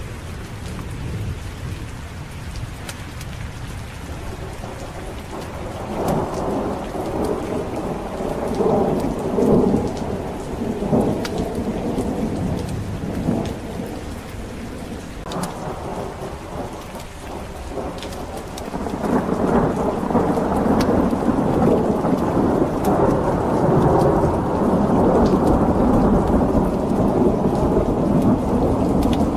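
Steady rain with rolling thunder. Rumbles swell about six seconds in and die back, then a longer, louder rumble starts about two-thirds of the way through and carries on.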